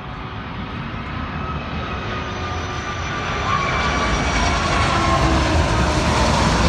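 Airbus A330-200 jet engines running up for takeoff: a steady low rumble with several whining tones, growing louder over the first few seconds.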